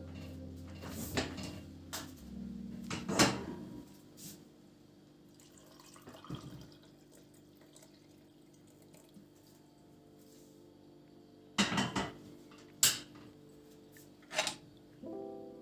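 Faint background music with a few sharp knocks and clicks of household objects being handled: three in the first few seconds, a quiet stretch, then three more near the end.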